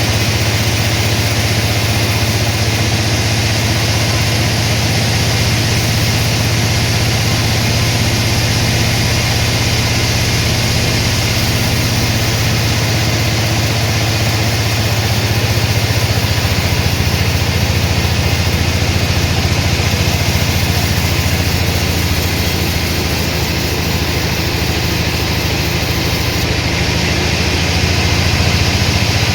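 Sawmill machinery running steadily, a loud low hum under an even mechanical noise, shifting slightly about halfway through.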